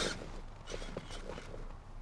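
The Kyosho Blizzard RC tracked vehicle's electric motor and tracks are eased off, with a few short bursts of motor whine about a second in and clicks from the tracks.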